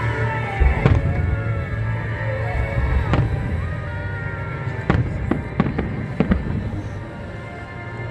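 Fireworks shells bursting in sharp bangs, one about a second in, another about three seconds in and a quick run of several more between about five and six and a half seconds, over music with a steady bass.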